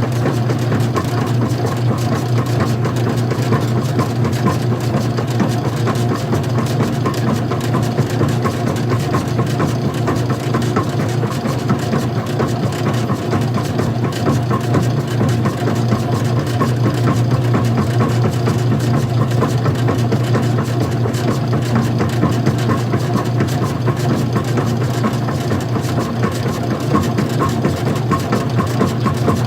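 Old-style front-loading washing machine running with its top cover off: a steady motor hum with fast, even ticking over it.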